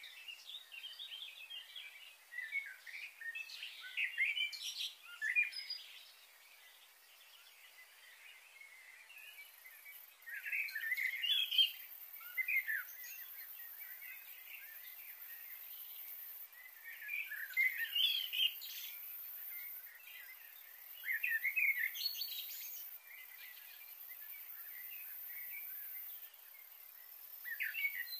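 Wild birds singing, with bursts of quick chirping phrases every few seconds. A faint, steady, high-pitched hiss comes in about nine seconds in.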